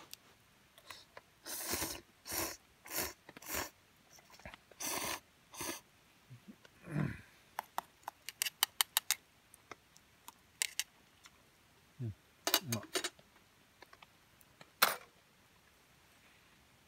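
Small objects being handled at close range: irregular short clicks, clacks and scrapes, with a quick run of clicks about eight seconds in.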